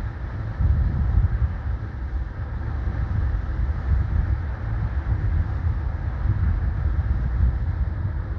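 Low, steady rumble of the diesel locomotives of a BNSF freight train pulling out, with wind buffeting the microphone.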